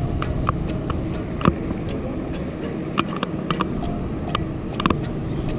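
Steady rain hiss with irregular drips and taps of raindrops falling close by, scattered and without any rhythm.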